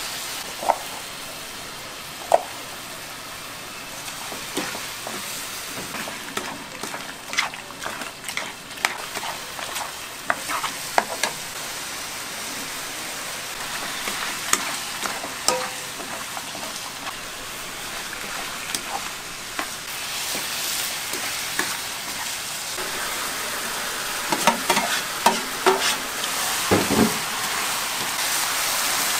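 Food sizzling as it fries in a pan, with scattered sharp clinks and knocks from a utensil stirring against the pan.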